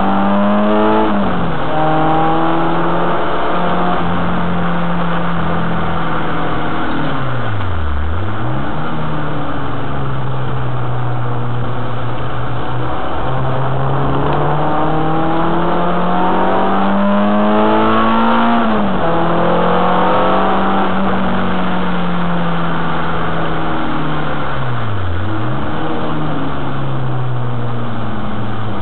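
Renault Clio 2 RS's 2.0-litre four-cylinder engine under hard driving on a circuit, revs rising and falling through the gears. The engine pitch drops steeply and climbs back twice, about eight seconds in and again around twenty-five seconds, as the car slows for corners and accelerates away.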